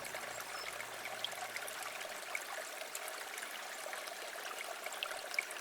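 Stream water flowing and trickling steadily, with small splashes and drips. Low background music fades out in the first two seconds.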